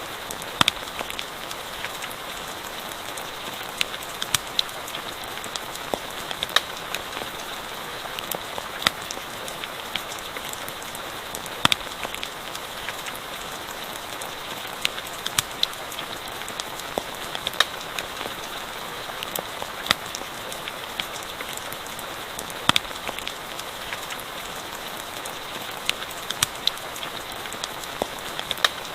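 Steady rain falling, with a campfire crackling: scattered sharp pops and snaps, several every few seconds, over the even hiss of the rain.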